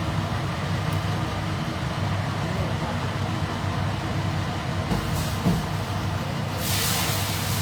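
A steady low mechanical hum, with a rushing hiss that comes in about two-thirds of the way through.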